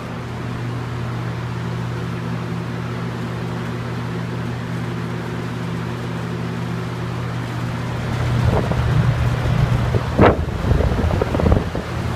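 Two box fans running on high: a steady motor hum with the rush of moving air. From about eight seconds in, irregular gusts of air buffet the microphone.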